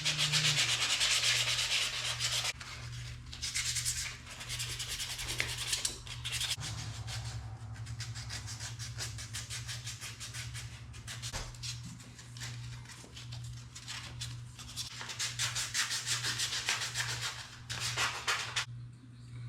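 A wooden handle being hand sanded with 220-grit sandpaper: rapid back-and-forth rubbing strokes, loudest in the first couple of seconds and again near the end, with a steady low hum underneath.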